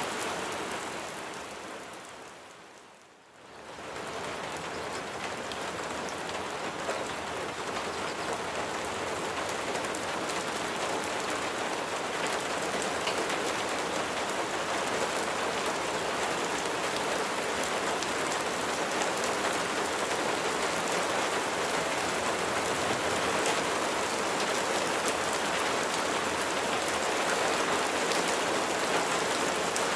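Steady rain falling, a dense even hiss of drops. About three seconds in it fades briefly almost to nothing and comes back up within a second.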